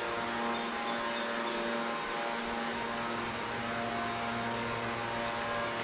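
A steady mechanical drone holding one unchanging pitch with several overtones, like a motor running at constant speed, ending in a sudden cut.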